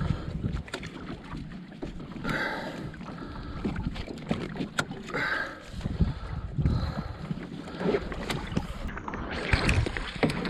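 Water sloshing and splashing against a kayak hull, with irregular knocks and clicks and some wind on the microphone.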